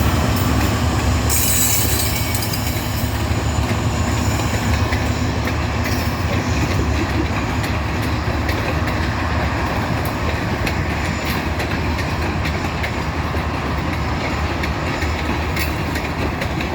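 Loaded freight train rolling past, its cars making a steady rumble of steel wheels on rail. There is a stretch of high wheel squeal about a second in, and clicks of wheels over rail joints through the rest.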